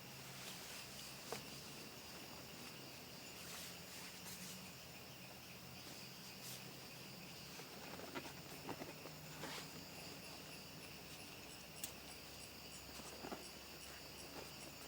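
Faint, steady chorus of crickets and other insects trilling, with an evenly pulsed high chirping for a couple of seconds in the second half. A few sharp clicks and light knocks sound here and there over it.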